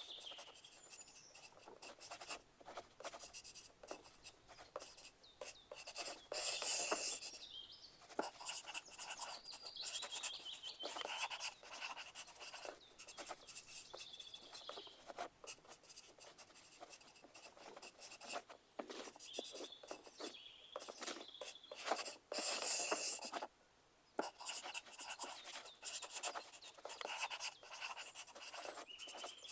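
Pencil writing on paper: a steady run of short scratching strokes, with two louder spells of fast scribbling, about seven and twenty-two seconds in.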